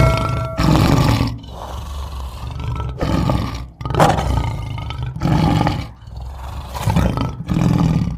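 A series of loud, rough animal roars, several in a row with short pauses between them.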